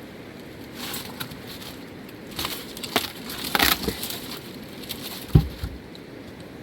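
Dry wood and twigs cracking and crunching in a few irregular snaps, with one heavier thud a little past five seconds in, over a steady background hiss.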